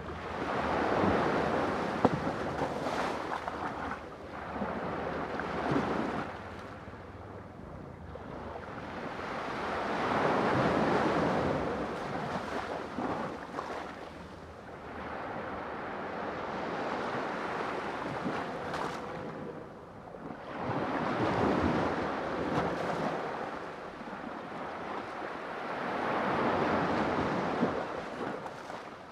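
Sea waves breaking and washing back, the surf swelling and fading in turn every few seconds.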